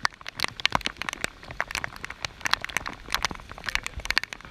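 Rain falling, with individual drops landing close by as sharp, irregular ticks, several a second, over a faint hiss.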